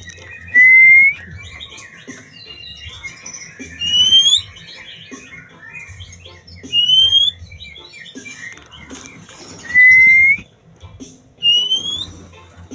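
Oriental magpie-robin (kacer) singing: five loud, clear upslurred whistles spaced two to three seconds apart, some starting low and others higher, with softer twittering between them.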